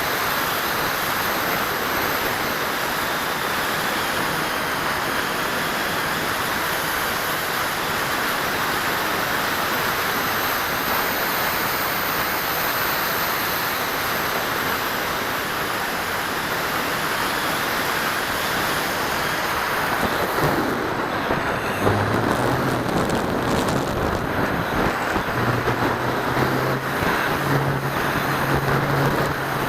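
Steady rush of airflow buffeting the onboard camera's microphone on a Dynam C-47 RC electric twin in flight, with a faint high whine from its electric motors. About two-thirds of the way through, the rush turns rougher and a low hum steps up and down in pitch.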